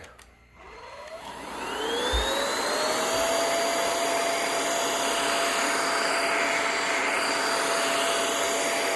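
Cordless vacuum cleaner switching on: its motor spins up over about three seconds to a steady high whine, with a strong rush of suction air, as it goes over a rug.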